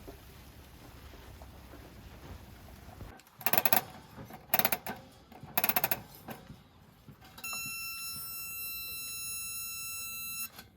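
Three short loud rattling bursts about a second apart, then a steady high tone held for about three seconds that cuts off suddenly.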